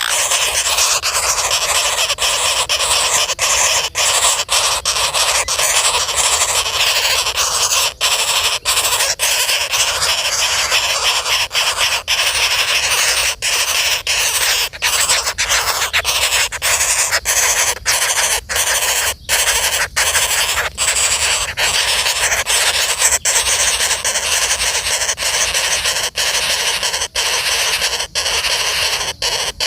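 Flameback woodpecker giving harsh, almost unbroken calls, broken only by many brief gaps.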